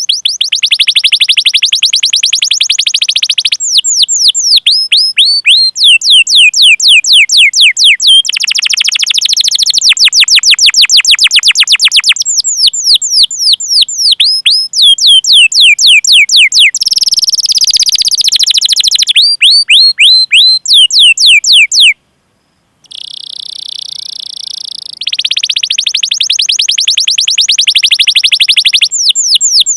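Domestic canary singing loudly: a long song of rapid repeated sweeping 'cuit cuit' chirps alternating with fast rolling trills. It breaks off for under a second about two-thirds of the way through, then resumes softer before building again.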